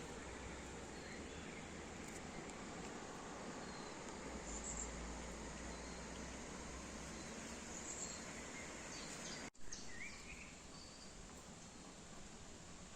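Forest ambience: a steady hiss of outdoor background noise with a thin, high insect buzz and a few short, faint bird chirps. The sound drops out for an instant about nine and a half seconds in.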